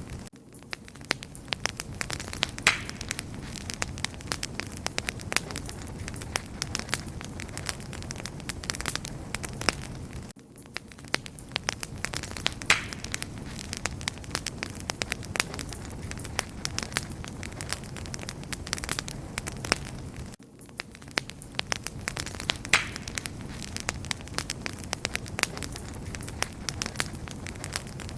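Wood fire burning with dense, steady crackling and popping over a soft low rumble. There is a brief dip in level about every ten seconds.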